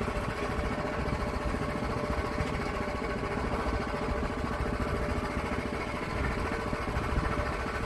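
A small engine running steadily at idle, most likely the sawmill's engine between cuts.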